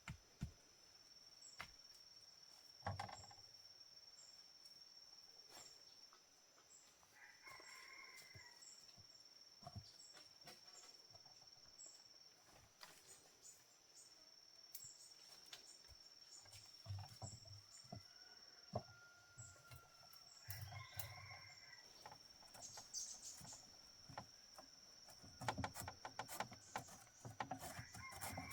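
Faint chicken calls, a few short ones, over a steady high-pitched insect drone, with scattered light clicks and taps.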